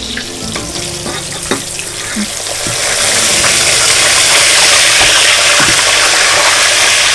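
Breaded minced-beef patties frying in shallow oil in a stainless steel pan, a steady sizzle that grows louder about three seconds in as the patties are worked with a fork.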